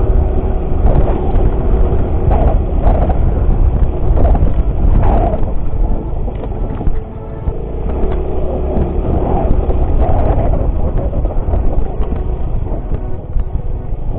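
Motorcycle engine running while being ridden off-road, with heavy wind rumble on the microphone.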